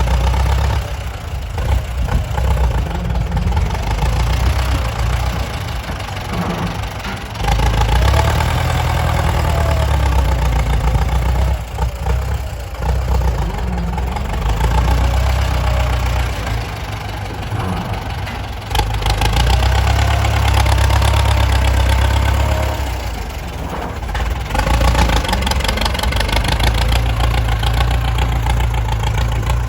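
Diesel engines of a dump truck and a tractor working, swelling louder and dropping back several times as they rev and take load.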